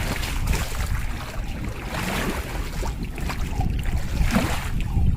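Wind buffeting the microphone with a deep, uneven rumble, over the steady rushing noise of heavy rain.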